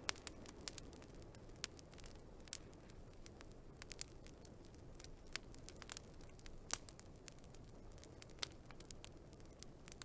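Wood fire crackling, with irregular sharp pops and snaps, several a second, over a steady low hiss of burning.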